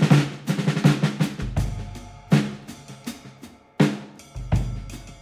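Background music carried by a drum kit: quick runs of pitched tom and snare hits with a few deep bass-drum strikes between them.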